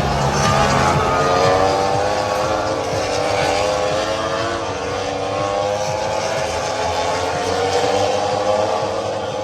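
Motorcycle engine running at high revs, its pitch dipping at first, then slowly climbing and easing off again.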